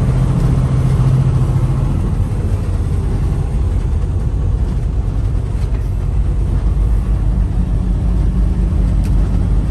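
Freightliner semi-truck's diesel engine running with a steady low rumble, with a faint steady hum in the first two seconds and a single click near the end.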